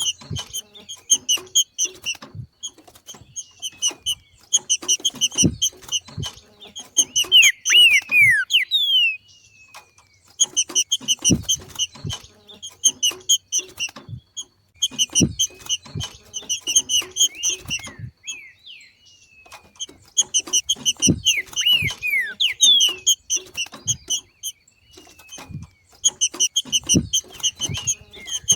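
Green-winged saltator (trinca-ferro) giving its 'macheado', bouts of fast chattering notes a few seconds long separated by short pauses, with a few quick downward-sliding whistles mixed in.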